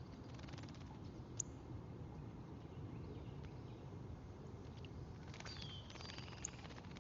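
Faint wild birds chirping over a steady low outdoor rumble: a single sharp high chip about a second and a half in, then a quick run of chirps with falling notes near the end, followed by another high chip.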